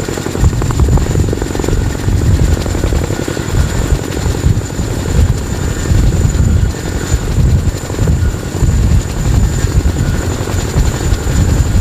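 CH-47 Chinook tandem-rotor helicopter running, its rotors making a dense, rapidly pulsing low beat, with a thin steady high-pitched whine above it.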